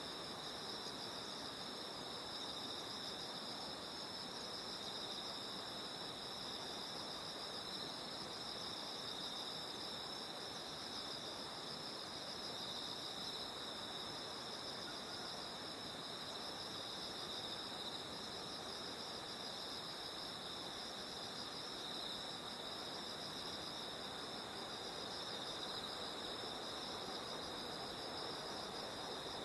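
Autumn-night insect chorus: many insects trilling together in a steady, unbroken drone at two high pitches, over a faint background hiss.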